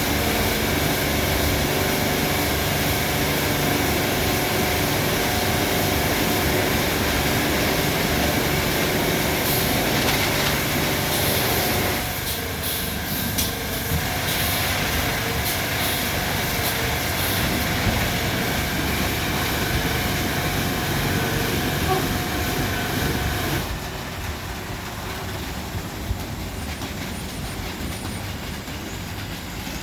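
Christ Genius Vitesse rollover car wash machinery running, a steady motor hum over a noisy hiss. The sound changes about twelve seconds in and drops quieter about 24 seconds in, as the wash moves to another stage.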